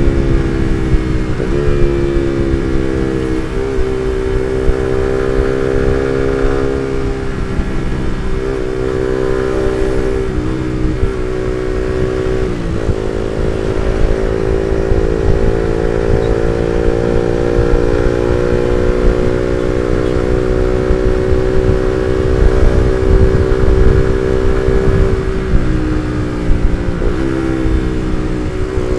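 Suzuki GSX-R150's single-cylinder engine through an R9 Misano aftermarket exhaust, ridden on the road. Its pitch climbs under throttle and drops sharply at a string of gear changes in the first half, climbs slowly for a long stretch through the middle, then drops again at two more shifts near the end.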